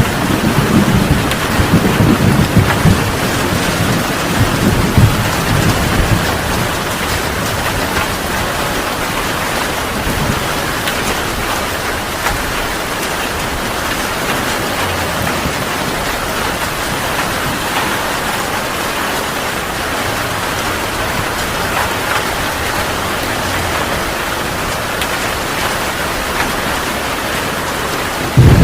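Heavy rain falling steadily in a thunderstorm, with a low rumble of thunder that dies away over the first few seconds.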